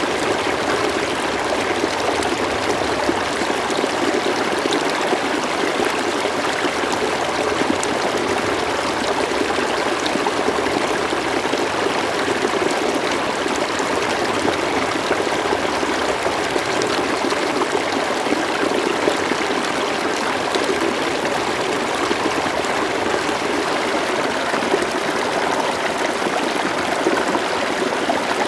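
A slow-flowing river running steadily, an even rush of water with a light trickle.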